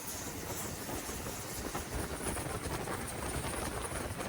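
Engine of a Thai longtail racing boat running hard at speed, a steady rumble without a break.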